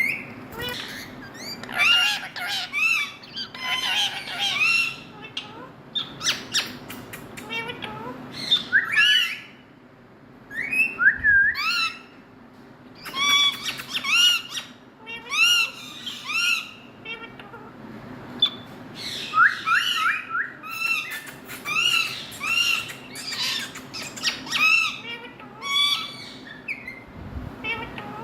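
Parrots calling in a run of short, harsh calls and chirps that rise and fall in pitch, repeated every second or so with brief pauses.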